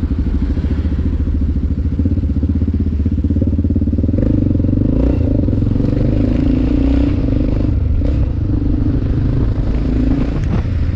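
Yamaha XT600E's air-cooled single-cylinder four-stroke engine running, its firing pulses steady and close together; about four seconds in the sound grows fuller and stronger, as with more throttle.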